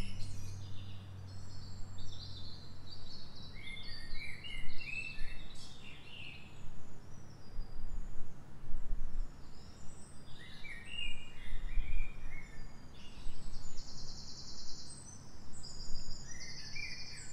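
Birds chirping in the background: scattered groups of short, high chirps over steady low background noise, with a low hum that fades out in the first few seconds.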